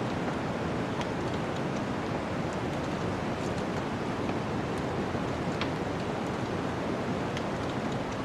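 A steady rushing of snowstorm wind, with faint small crackles and pops from a wood fire scattered through it.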